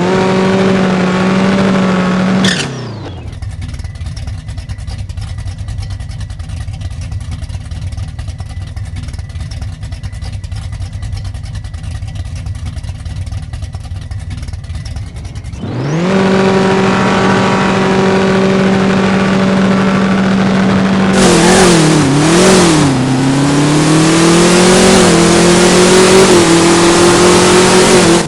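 Big-block V8 of a ProCharger-supercharged Camaro drag car held at a steady raised rev, dropping to idle after about two seconds. About sixteen seconds in it is revved up and held again, wavers briefly, then climbs slowly toward the end.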